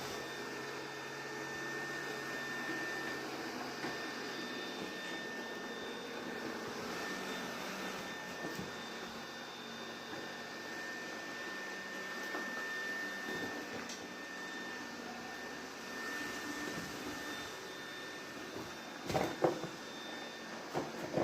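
Vacuum cleaner running steadily, a noisy rush with a thin high whine over it. A few knocks near the end.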